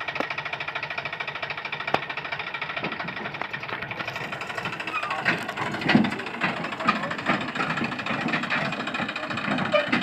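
Tractor diesel engine running with a fast, even knocking beat. About four seconds in the sound changes and louder irregular knocks come in over the engine.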